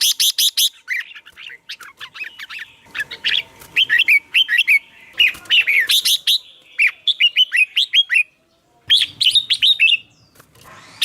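Red-whiskered bulbul singing: rapid runs of short, bubbly whistled notes, broken by a brief pause about eight seconds in.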